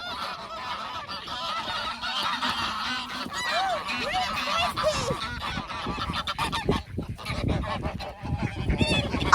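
A group of geese honking and squabbling in a fight, many harsh calls overlapping with sharp scuffling noises throughout.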